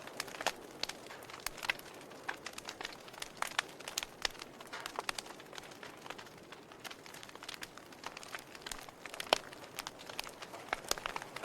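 Wood fire crackling, with irregular sharp pops and snaps over a steady low hiss of burning; one louder snap a little past the middle.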